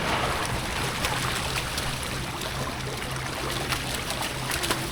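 Water splashing and churning as a mass of fish thrashes at the surface for thrown feed, with small scattered splashes and a faint steady low hum underneath.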